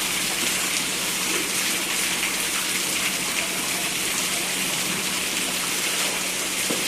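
Steady heavy rain falling, a dense, even hiss with no break.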